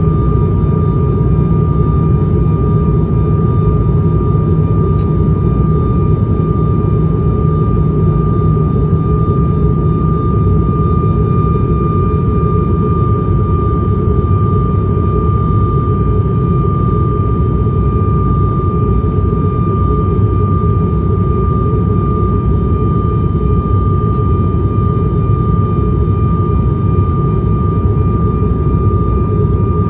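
Cabin noise inside an ATR 72-500 turboprop: a steady, loud drone from its Pratt & Whitney PW127 engines and six-blade propellers, with a constant high-pitched whine held over it.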